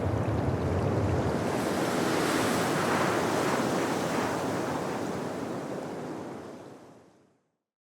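Strong blizzard wind blowing as a steady rushing noise, heaviest in the low end with some wind buffeting on the microphone, swelling a little midway and then fading out to silence near the end.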